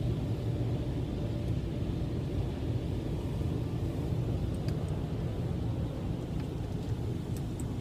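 Steady low rumble of a car heard from inside the cabin, with a few faint ticks in the second half.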